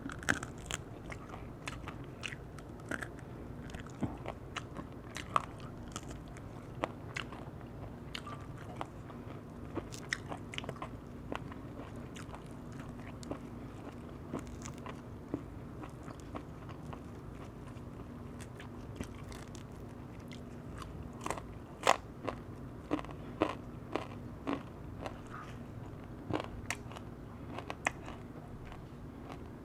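Close-up eating sounds of crispy firewood-roasted chicken wing being bitten and chewed: scattered sharp crunches of the skin, thickening into a louder run of crunches a little past twenty seconds in.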